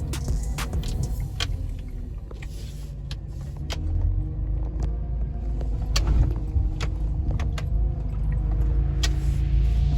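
A four-wheel-drive's engine running at low revs under load, with frequent knocks and clunks from the vehicle working over rough ground.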